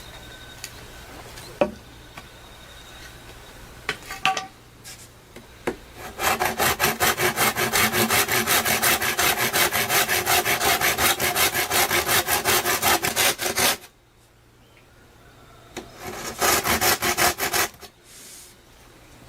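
Hand saw cutting through wood in quick, even back-and-forth strokes, about four a second, for some eight seconds, then a shorter burst of strokes near the end, with a few knocks before the sawing starts.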